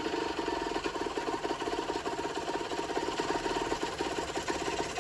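Generic Trigger SM 50cc two-stroke engine idling steadily with a fast, rattly patter after coming down from a rev; it is not running too great, which the mechanic puts down to an air leak.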